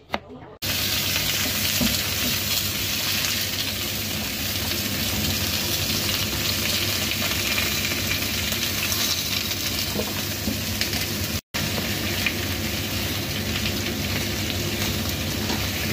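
Sliced turnip sizzling steadily as it fries in a hot wok, stirred with a wooden spatula. A knife chops through turnip on a wooden board for the first moment before the sizzling starts, and the sizzling drops out for an instant about eleven seconds in.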